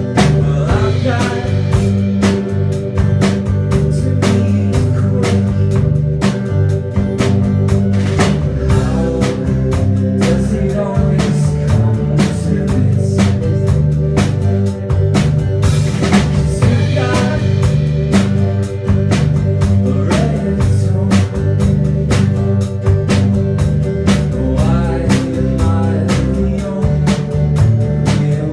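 A rock band playing live through an instrumental stretch: a drum kit keeping a steady beat under a moving bass line and guitar.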